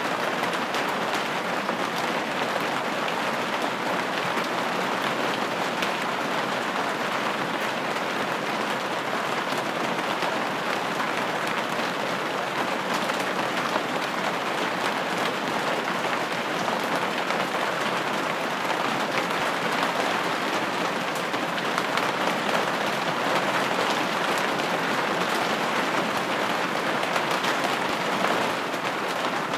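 Steady rain falling on window glass: a dense, even hiss with fine scattered drop ticks, unchanging throughout.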